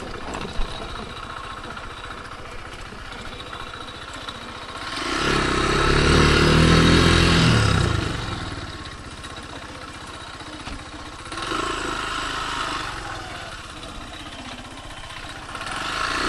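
Kymco KTR 150 single-cylinder motorcycle engine running while being ridden. It grows louder about five seconds in, eases off a few seconds later, and rises again more briefly near the end.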